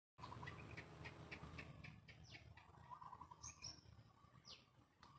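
Faint birdsong: a run of short chirps, then several quick falling whistles and brief trills, over a low steady background hum.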